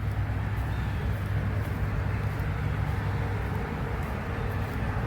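Steady low hum of an engine idling, level and unchanging, under general outdoor background noise.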